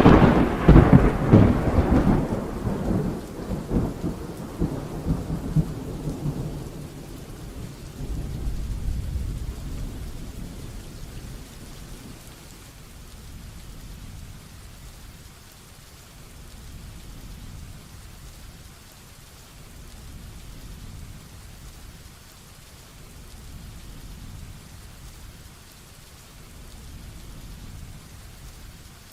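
A close thunderclap cracks right at the start and rolls off in a rumble that fades over about seven seconds, with a second, lower rumble around eight to ten seconds in. Heavy rain falls steadily throughout.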